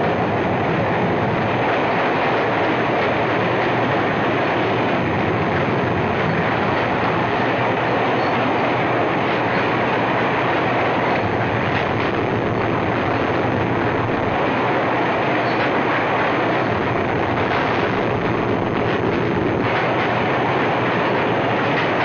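A moving train running along the rails, a steady, unbroken noise from the soundtrack of an old 1950 film.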